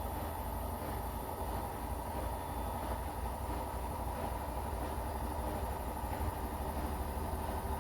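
Washing machine running mid-cycle, a steady low rumble and hum without breaks.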